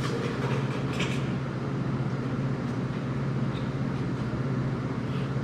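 Steady low machine hum from shop equipment running, with a short faint hiss about a second in.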